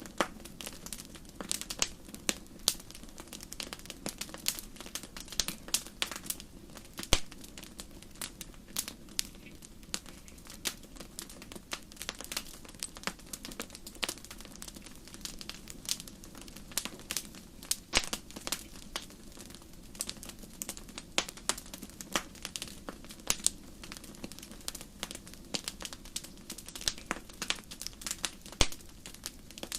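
Wood campfire crackling: frequent irregular pops and snaps over a steady low hiss of burning, with a few louder pops now and then.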